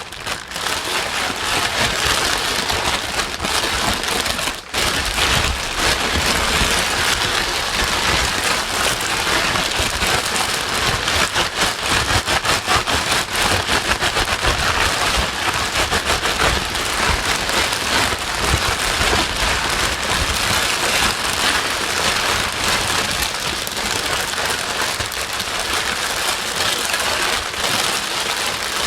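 Steady white noise with a dense, rain-like hiss spread across all pitches. It dips out briefly twice, right at the start and about five seconds in.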